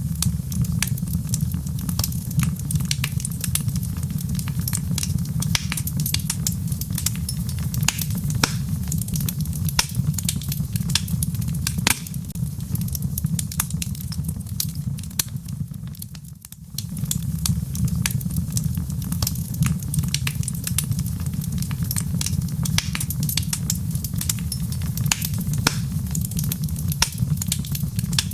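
Wood fire crackling in a fireplace: frequent, irregular sharp pops and snaps from the burning logs over a steady low rumble of the flames. The sound dips briefly about two-thirds of the way through, then returns.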